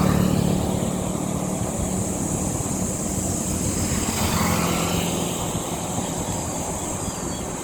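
Steady drone of a motor vehicle on the move: a low engine hum over a continuous rush of road and wind noise.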